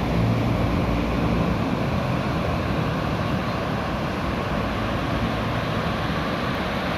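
Ocean surf breaking and washing on the beach, with wind buffeting the phone's microphone in a steady low rumble.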